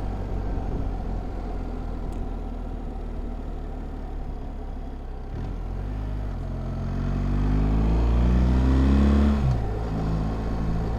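BMW R1300GS boxer-twin engine under way: a steady running note, then about six seconds in it pulls harder, its pitch rising for about three seconds before dropping sharply near the end as the throttle comes off or a gear changes.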